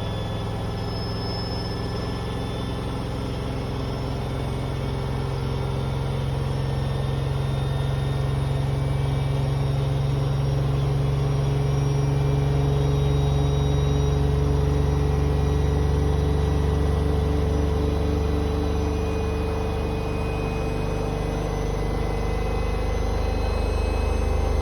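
Hoover H-Wash 500 washing machine on a high-speed spin-only cycle set to 1600 rpm: a steady low drum hum with a motor whine that rises slowly in pitch and grows gradually louder.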